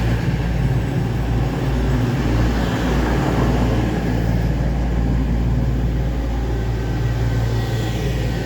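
Class 222 Meridian diesel multiple unit's Cummins QSK19 underfloor diesel engines running with a steady low throb, holding an even pitch.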